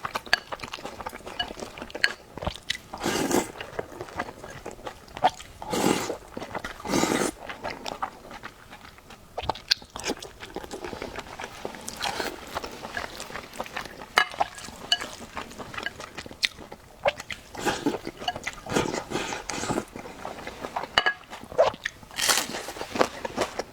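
A person chewing and biting food close to the microphone: irregular wet clicks and crunches, with louder bursts every few seconds.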